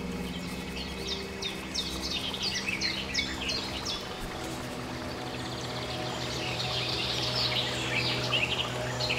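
Birds chirping in two flurries of quick falling chirps, one starting about a second in and another near the end, over a steady low drone of sustained tones.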